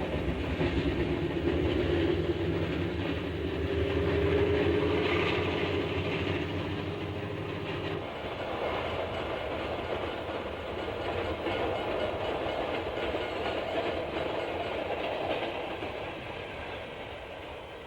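A diesel train running, with a heavy, steady engine rumble. About eight seconds in the sound changes abruptly to lighter rolling noise, which fades toward the end.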